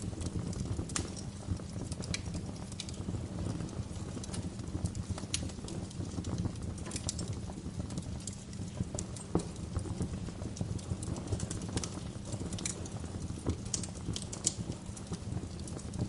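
Wood fire crackling in a fireplace: sharp irregular pops and snaps over a steady low rumble of the flames.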